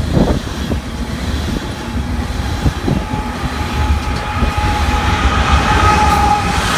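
Tank cars of a BNSF ethanol train rolling past: a steady rumble of steel wheels on rail with occasional clacks. From about four seconds in, a high steady wheel squeal joins the rumble.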